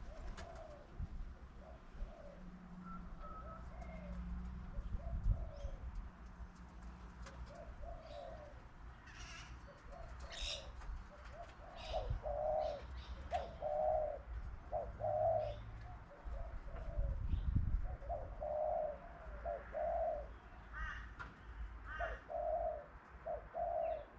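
Pigeons cooing: a repeated series of short low notes in groups, louder in the second half, with a few brief higher bird chirps in between.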